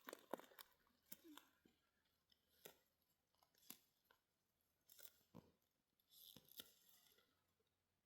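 Near silence broken by faint, irregular small clicks and crackles, about a dozen in all, with a brief soft rustle about six seconds in.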